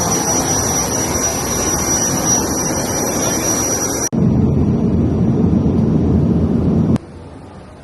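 Small airliner's turbine engines running, a loud steady rush with a high whine over it. After an abrupt cut about four seconds in comes a deeper, louder low rumble, which cuts off sharply about a second before the end.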